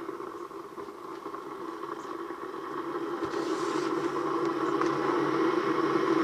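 DeLonghi Distinta electric kettle heating water on its concealed stainless steel element: a steady rushing hum that grows gradually louder, the sound of the water warming up toward the boil.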